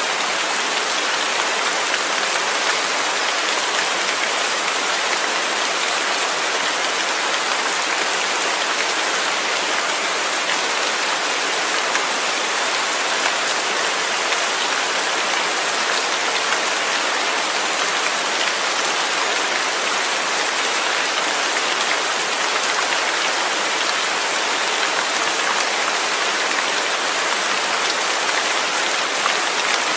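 Steady rain falling, an even hiss of many drops landing on a surface, with no rise or fall.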